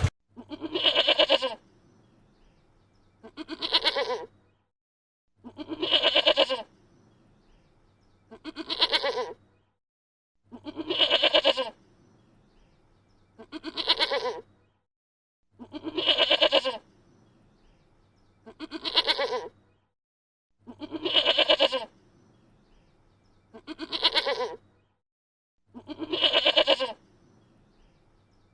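A bleat repeated eleven times at an even pace, about every two and a half seconds: each call lasts about a second, and the calls are so alike that they sound like one recording looped.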